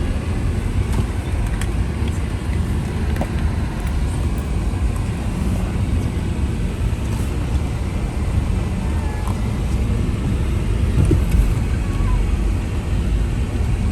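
Car cabin noise while driving: a steady low rumble of the engine and tyres on the road, heard from inside the car.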